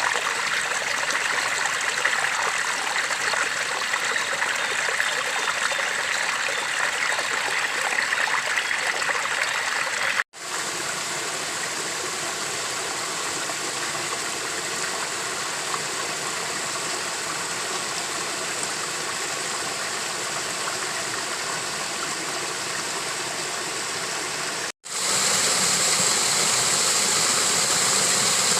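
Steady rush of a flowing river. It cuts off abruptly twice, about ten seconds in and again near the end, and each stretch of rushing has a slightly different tone.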